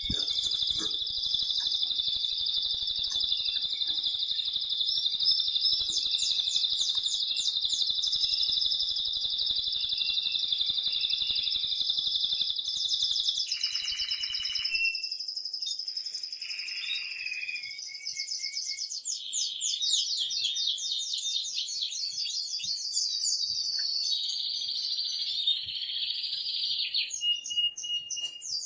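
Male canary singing an excited song: long rolling trills and fast repeated chirps, with a short break about halfway through before the trills resume.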